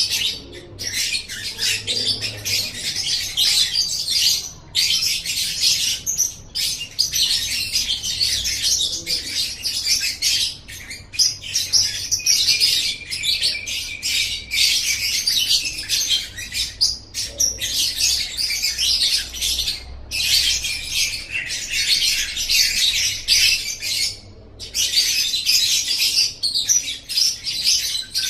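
Lovebird singing: long runs of rapid, high-pitched chattering trills, broken by short pauses every few seconds.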